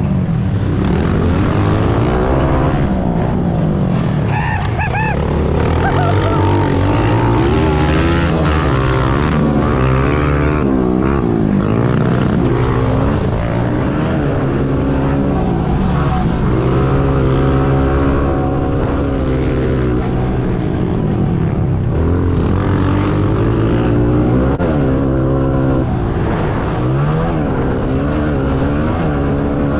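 Pit bike's single-cylinder four-stroke engine revving hard, its pitch climbing and dropping again and again as the throttle is worked through gear changes.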